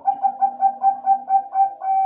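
Zebra dove (Bangkok-type perkutut) cooing: a loud string of quick, clipped coo notes, about four a second, running into a longer held note near the end.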